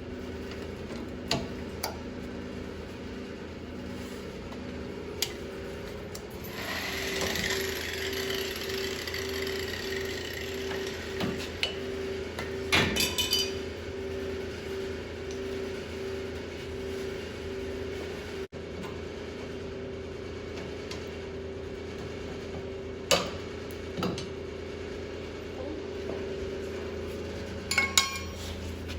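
Hand tools clinking and knocking against metal car parts in scattered single strikes. A steady hiss runs for about six seconds from roughly a quarter of the way in, over a constant low hum.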